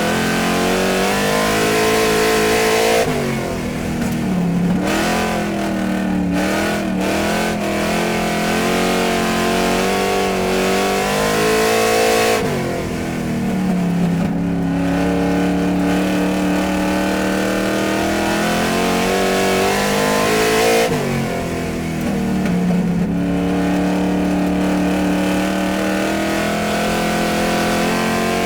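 Car engine running at high revs, steady in pitch. Three times, about nine seconds apart, the pitch drops sharply and then climbs back up.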